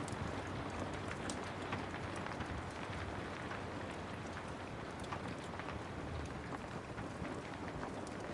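Steady rain with a wood fire crackling, small sharp pops scattered irregularly through it.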